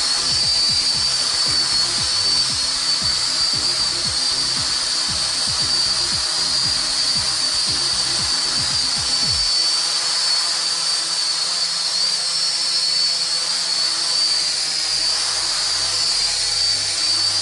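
Small MJX toy quadcopter's motors and propellers running with a steady high-pitched whine that wavers slightly in pitch as it is held in a hover.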